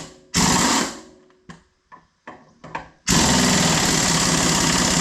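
A handheld power tool running in short bursts, then in one steady run of about two seconds that stops suddenly.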